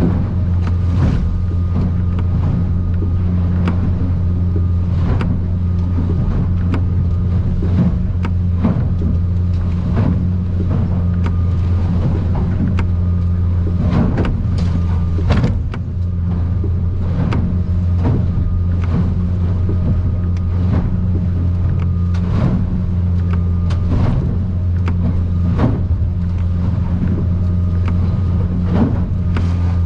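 Outboard motor running at a steady cruising drone on an aluminium boat pounding through rough water. Frequent irregular knocks and bangs come as the hull slams over the swells.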